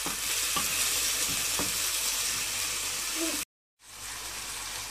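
Chicken pieces sizzling as they fry in oil in a pan, stirred with a wooden spatula that knocks lightly against the pan a couple of times. The sound drops out completely for a moment about three and a half seconds in, then the sizzling carries on a little quieter.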